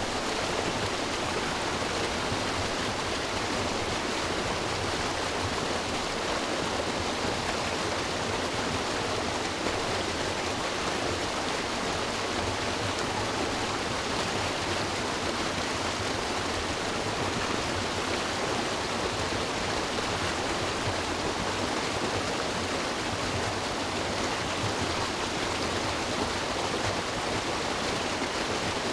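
River water rushing steadily over rocks, an even, unbroken rushing sound.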